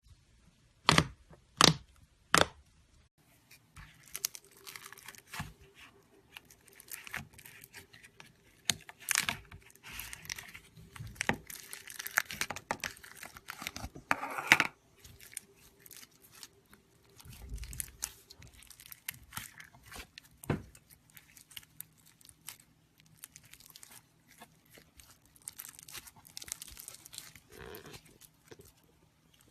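Slime being squeezed and stretched by hand: sticky, irregular crackling with small pops, and three sharp snaps in the first few seconds.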